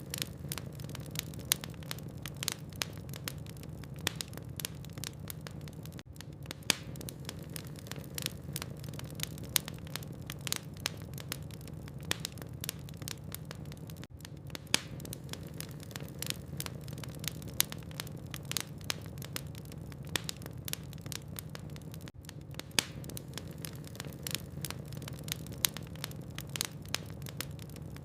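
Wood logs burning in a fireplace, crackling: many sharp, irregular snaps several times a second with an occasional louder pop, over a steady low hum.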